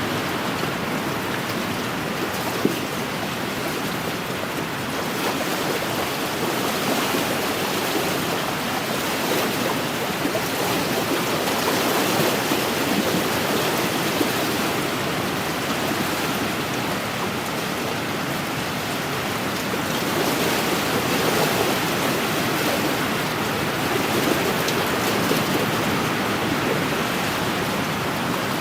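Wind-driven waves washing against a lakeshore, mixed with wind: a steady rushing wash that swells and eases every several seconds. One brief tick about three seconds in.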